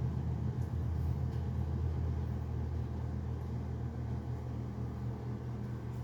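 A steady low hum with an even rumbling drone, like a running engine or motor.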